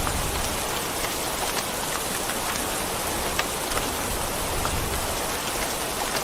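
Steady heavy rain falling on a surface, a dense even hiss with scattered crisp drop ticks.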